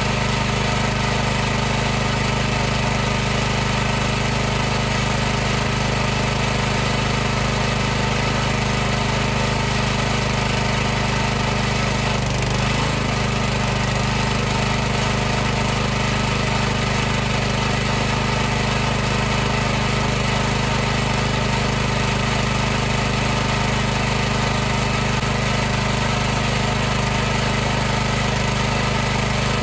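High-pressure washer running steadily: a continuous loud motor-and-pump hum with a high hiss over it, and a brief wobble in pitch about twelve seconds in.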